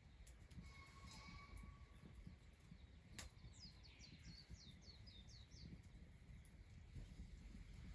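Faint outdoor ambience with a songbird singing a quick series of short, high, falling notes about four to six seconds in. Near the start there is a faint, level whistled tone, and just after three seconds a single sharp click.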